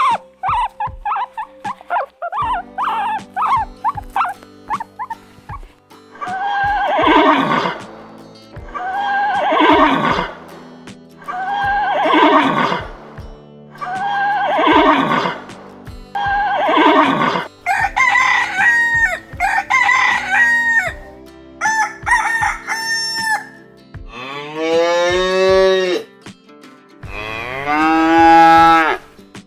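Farm animal calls in turn over light background music: short quick calls, then five long falling calls evenly spaced, then a few shorter calls, and two long cow moos near the end.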